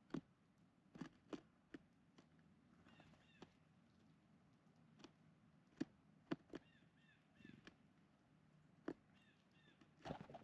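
Small birds feeding at a feeder: scattered sharp taps and clicks, with short chirps in small groups of two or three notes, three times. The sound is faint.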